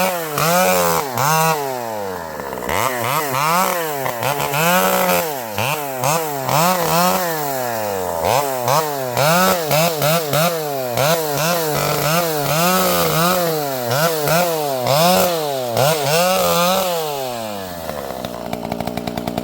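Vintage Pioneer chainsaw's two-stroke engine with a governed carburettor, revving up and dropping back over and over, about once a second, as it works. Near the end it settles to idle.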